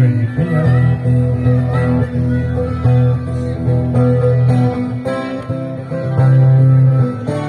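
Acoustic guitar playing an instrumental passage of a song, with no singing.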